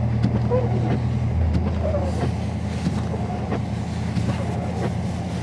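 A 2022 Dodge Charger Scat Pack's 6.4-litre HEMI V8 running steadily under way, heard from inside the cabin while merging onto the highway, with road noise under it. About a second and a half in, its note steps down.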